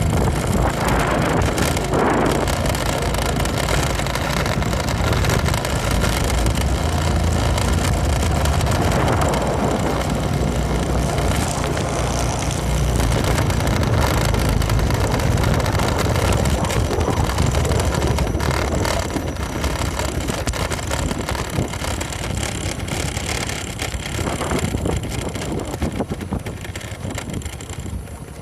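Motorcycle engine running while riding, heard from on the bike with wind noise on the microphone; it gets somewhat quieter in the last third.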